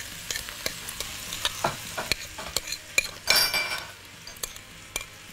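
Chicken pieces, green peppers and onion sizzling in a hot wok while a thick cheese sauce is scraped onto them from a glass bowl with a metal spoon, which clicks against the bowl and pan. A louder hiss comes a little over three seconds in.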